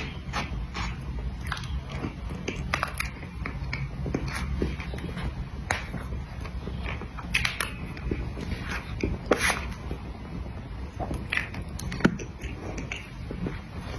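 Close-miked eating of cream cake: soft chewing with many irregular wet mouth and lip smacks and clicks. A steady low hum runs underneath.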